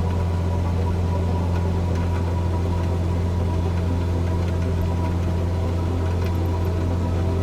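Cessna 172's piston engine and propeller droning steadily at a constant speed, a deep hum with a faint steady higher tone above it.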